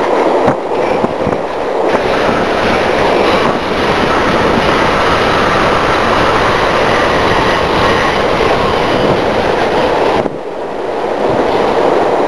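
Passenger train running at speed, heard from inside the carriage: a steady rolling rumble of wheels on rails, with a few clicks in the first couple of seconds. The noise drops abruptly about ten seconds in, then builds again.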